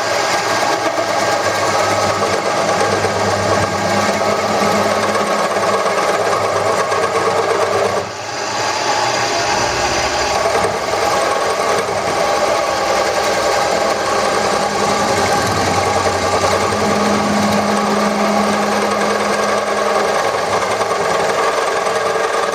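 Wood lathe spinning a wooden handle blank while a turning tool cuts it, giving a loud, steady scraping drone with a brief dip about eight seconds in.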